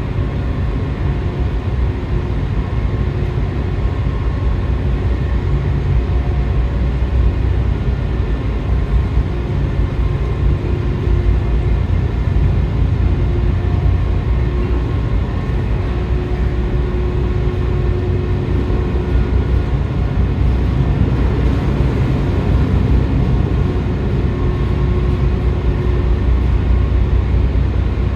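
Steady low rumble of the car ferry Orange Shikoku's machinery running while berthed, with a few faint steady tones over it.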